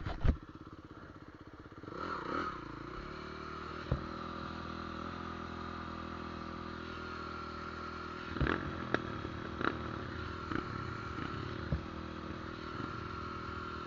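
A steady engine drone with a few short knocks and clicks.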